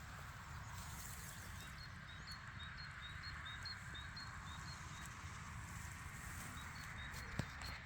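A small bird calling a series of short high notes, about two or three a second, that pauses and resumes near the end, over a steady outdoor hiss and low rumble. A single click sounds near the end.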